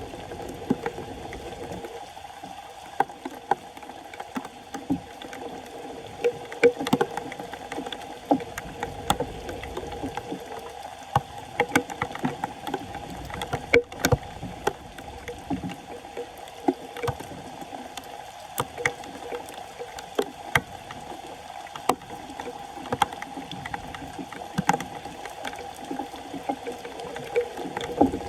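Floodwater sloshing and splashing around a clogged street drain, with frequent small knocks and clicks through it.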